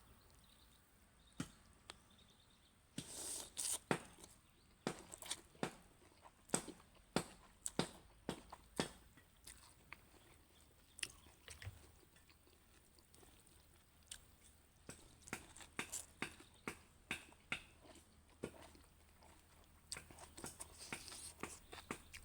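A person eating noodle soup with fresh vegetables and herbs close to the microphone: chewing, crunching and mouth smacks, heard as irregular sharp clicks in clusters, with a quieter stretch in the middle.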